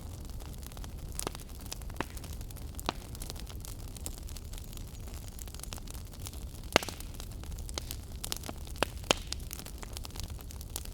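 Wood fire burning in a fireplace: a steady low rumble of flames with irregular crackles and pops, the loudest pop about seven seconds in.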